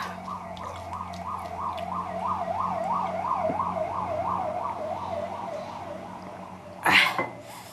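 Emergency-vehicle siren warbling up and down about three times a second, growing louder and then fading as it passes. A short, loud burst of noise comes near the end.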